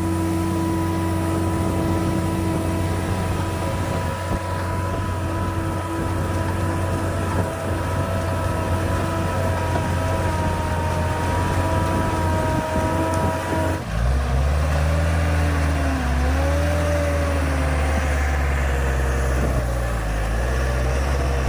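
Diesel engine of a tractor or earthmoving machine running steadily. About two-thirds of the way through, the sound changes abruptly to a deeper engine note whose pitch dips and rises as the engine speed varies.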